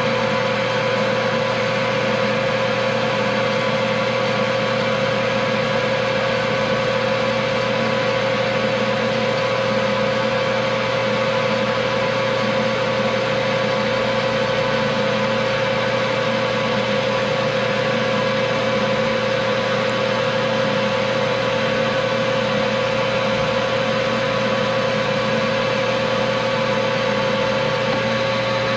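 Metal lathe running steadily with a constant whine, turning down the outside diameter of a small valve blank.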